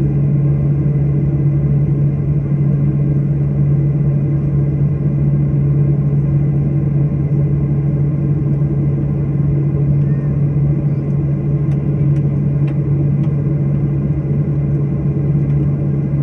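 Steady low drone of an airliner on the ground, a constant hum over rushing noise, with a few faint clicks about twelve seconds in.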